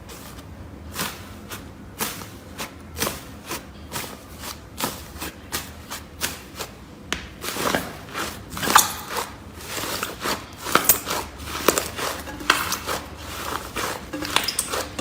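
Slime being pressed and worked by hand, giving irregular sharp clicks and pops that come thicker and louder from about halfway through.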